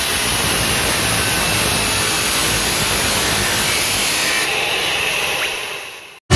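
Loud, steady mechanical noise with no clear pitch, fading out near the end.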